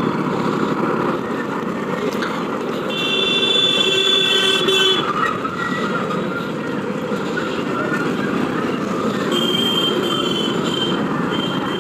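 Steady road and wind noise from a motorbike ride through city traffic. A vehicle horn sounds for about two seconds a few seconds in, and more horn blasts come near the end.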